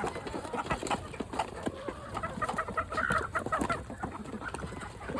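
Chickens clucking while they feed, with many quick pecking taps and clicks.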